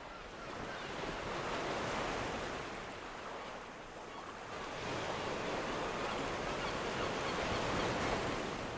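Ocean waves washing onto a shore, the surf swelling twice and then fading.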